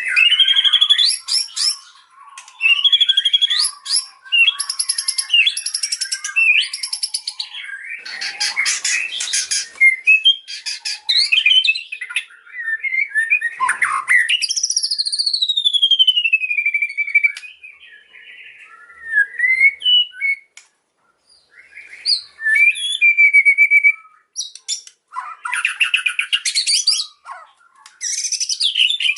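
White-rumped shama (murai batu) singing a loud, varied song of rapid chattering trills and clear whistles, with a long falling whistle about halfway through and a couple of short pauses.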